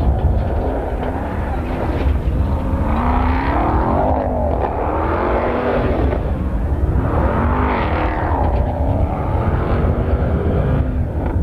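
Truck engine revving up and down several times over a steady heavy low rumble.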